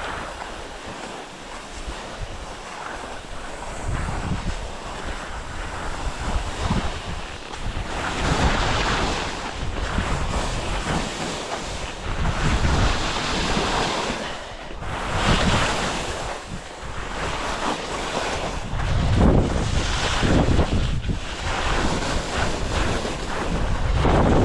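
Wind buffeting the microphone, surging and easing in gusts every few seconds with a heavy low rumble.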